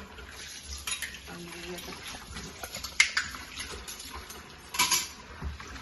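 A plate being washed and scrubbed under water, with a few sharp clinks of dishes, the loudest a clatter near the end.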